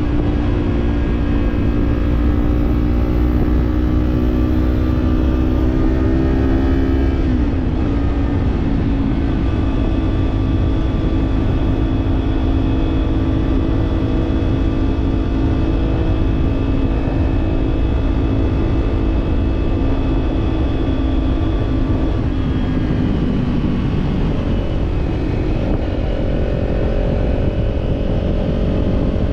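Kawasaki parallel-twin motorcycle engine and exhaust cruising at steady revs, with a heavy low rush of wind. The engine note drops about seven seconds in, sags again around twenty-three seconds, then climbs to a higher pitch near the end.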